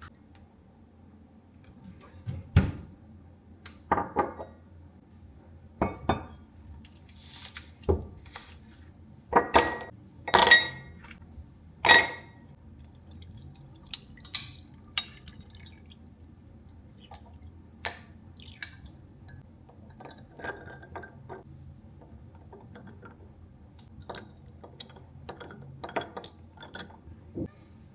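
Kitchenware being handled: glass and dishes clinking and knocking against each other and on a counter, in separate strikes with short gaps, the loudest cluster in the middle.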